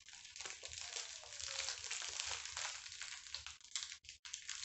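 A person chewing a big mouthful of Twinkie sponge cake with a cream filling, mouth closed: a steady run of small wet clicks and crackles close to the microphone.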